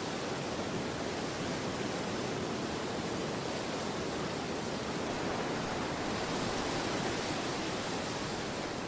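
Storm wind blowing steadily as an even rushing noise, swelling slightly in a gust about six to seven seconds in.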